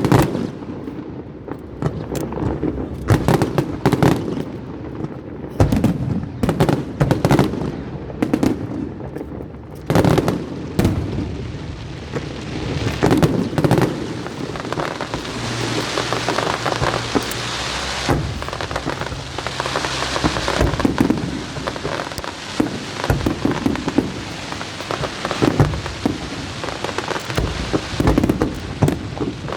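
Aerial fireworks bursting in quick succession, with booming bangs throughout. For about ten seconds in the middle, a dense crackling hiss like heavy rain runs under the bangs.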